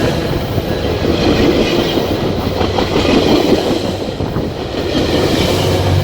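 GO commuter train passing at speed, its wheels clattering over the rails in a continuous loud rumble.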